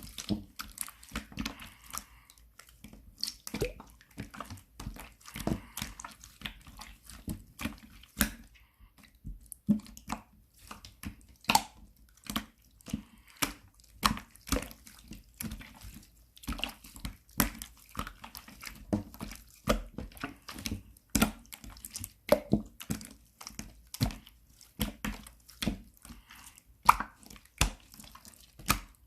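Hands squishing and pressing a mixed slime, making irregular sticky clicks and small wet pops, a few each second.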